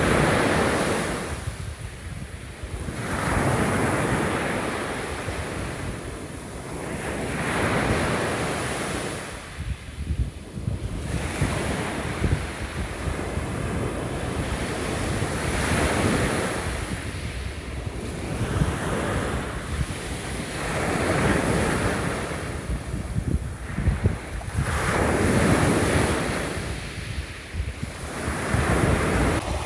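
Gentle waves washing onto a shore, each surge of hiss swelling and fading about every four seconds. A steady low rumble of wind on the microphone runs underneath.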